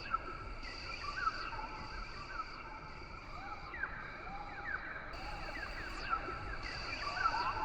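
Rain forest ambience: a steady, high insect drone, with a still higher layer that switches on and off every second or two. Over it come many short, quick bird chirps and whistles.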